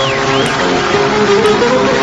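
Instrumental break of a Turkish folk song: a plucked string instrument, bağlama-style, playing the melody over steady accompaniment.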